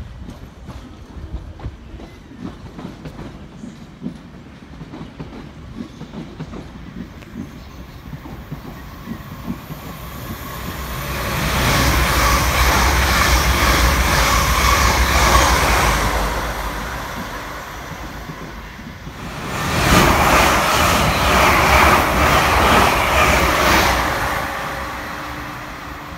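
Electric multiple-unit passenger train running past the platform, its wheels clattering over the rails. The noise builds from about ten seconds in, eases for a moment, surges again with a sudden rise, then fades near the end.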